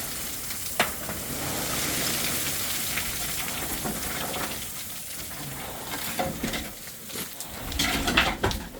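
Loose rock and gravel scraping and rattling as debris is kicked and shuffled underfoot, with a sharp knock about a second in and a burst of clattering stones near the end.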